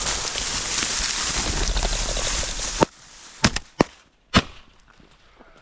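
Heavy wind buffeting on the microphone that cuts off suddenly, followed by a quick string of about four sharp shotgun reports within a second and a half: shots at a flushing rooster that get away.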